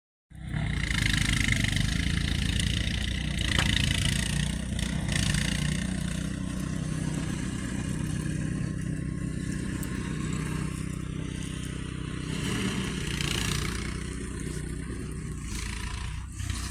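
A motor vehicle's engine running steadily as a low hum, with a broad hiss over it that swells and fades a few times.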